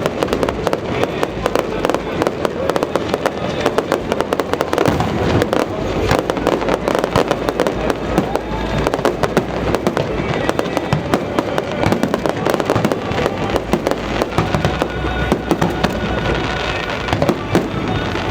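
Fireworks going off in a rapid, continuous string of bangs and crackles, with music playing underneath.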